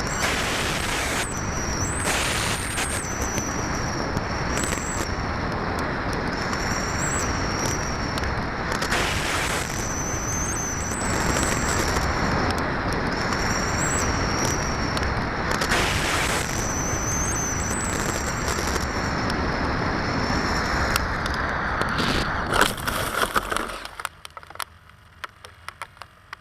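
Air rushing over a camera carried on an RC sailplane in flight, with a thin high whine that wavers in pitch. A few knocks come near the end, then the rushing noise stops suddenly.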